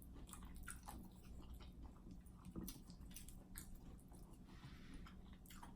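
Faint chewing with soft, wet mouth clicks: a person eating seafood buffalo dip.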